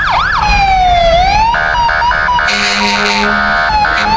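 Emergency vehicle sirens sounding in a procession: an electronic siren switching through quick yelping sweeps into a long falling wail, followed by a string of short horn blasts about halfway through.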